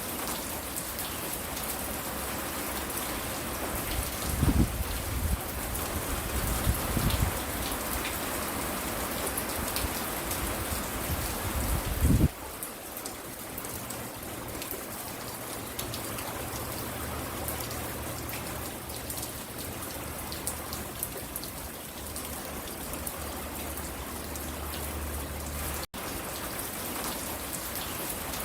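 Steady rain falling and pattering on surfaces. A few low rumbles break through in the first half, the loudest about twelve seconds in. Right after it the sound of the rain changes abruptly, and it drops out for an instant near the end.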